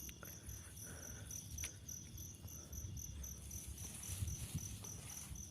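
Night insects chirping: a high, rapidly pulsed call repeating about four times a second over a steady high hiss, with a faint low rumble underneath.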